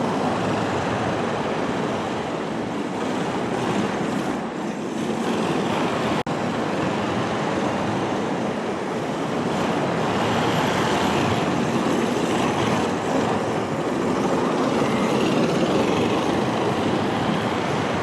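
HSP 94123 RC drift car with a brushless motor being driven, a steady rushing noise of motor and tyres scrubbing on the ground, broken by a brief dropout about six seconds in.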